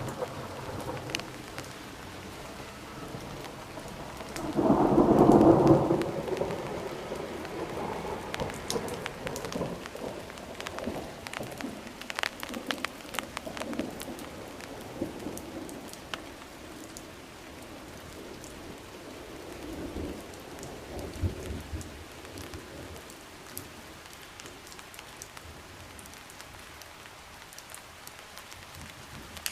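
Steady rain falling, with single drops landing close by as sharp ticks. A loud rumble of thunder comes about five seconds in and lasts a second or two, and a fainter rumble follows around twenty seconds in.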